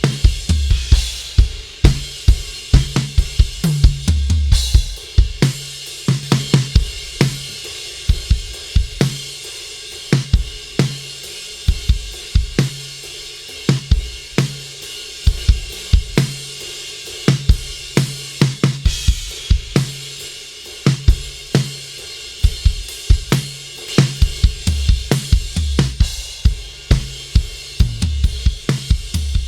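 Recorded drum kit playing a steady beat: kick drum, snare, hi-hat and cymbals, with a rapid run of hits throughout. It is a drum track being put through the Heritage Audio HA-609A diode-bridge compressor.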